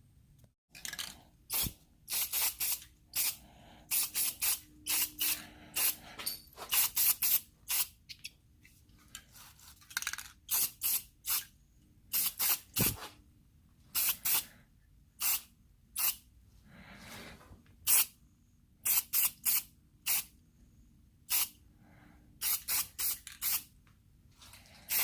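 Aerosol spray paint can spraying in many short hissing bursts, a fraction of a second to about a second each, with brief pauses between, as paint is laid on in passes.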